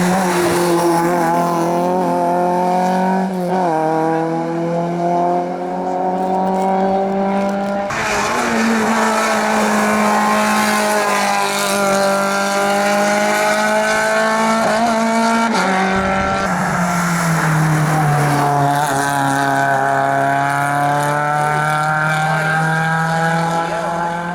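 Competition car engines at full throttle on a hillclimb, the pitch climbing and dropping again and again with gear changes. The sound changes abruptly about a third and two thirds of the way through, as from one car to the next.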